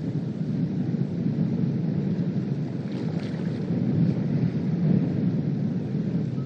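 Strong wind buffeting the microphone: a steady low rumble of noise.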